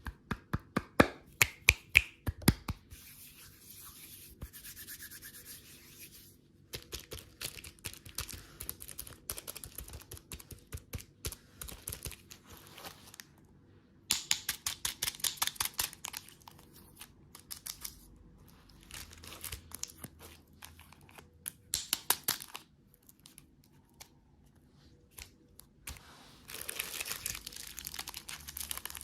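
Plastic packaging being handled: crinkling and tearing, with runs of quick, sharp clicks or taps that come in spurts with pauses between.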